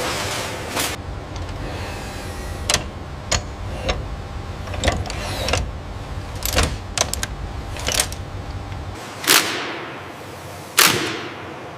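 Engine-plant machinery running, a low hum with a string of sharp metallic clicks and knocks. Near the end the hum drops away and two short, loud bursts of hiss follow, about a second and a half apart.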